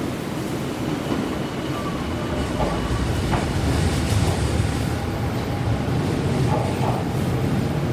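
Hibiya Line electric commuter train running through the station: a steady low rumble of the cars with a few short wheel knocks and a faint thin squeal above.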